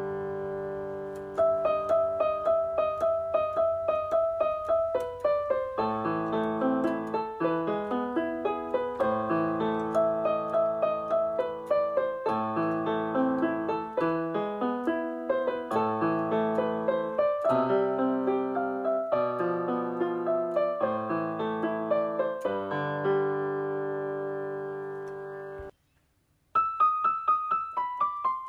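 Background piano music: a steady run of notes and chords, breaking off for about half a second near the end before starting again.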